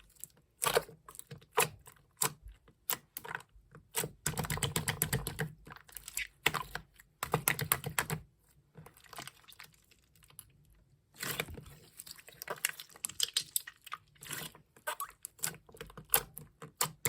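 Typing on an iPhone's on-screen keyboard: quick runs of sharp taps in irregular bursts, with a pause of a few seconds in the middle.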